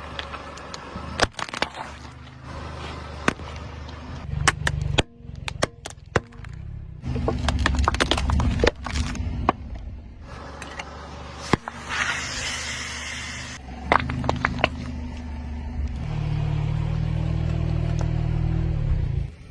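Car engine running low and steady while a tyre rolls over objects and crushes them, with many sharp cracks and crunches scattered throughout.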